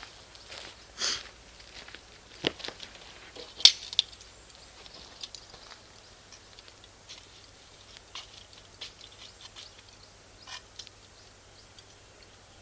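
Bonfire of Iwate cut charcoal and firewood crackling, with irregular sharp pops as the charcoal bursts; the loudest pops come in the first four seconds, then smaller scattered ticks.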